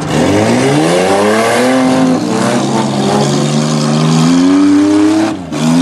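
Demolition derby minivan engine revving hard: the pitch climbs steeply in the first second, then keeps rising slowly while held high. Near the end it drops briefly and climbs again.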